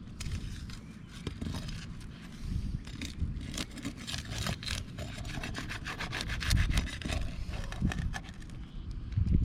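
Rough scraping and rubbing of roof shingles being worked by hand and tool, with a run of quick scratchy strokes in the middle.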